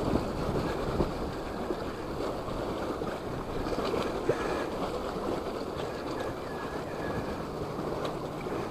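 Strong wind buffeting the microphone as a steady low rushing, with a few faint clicks.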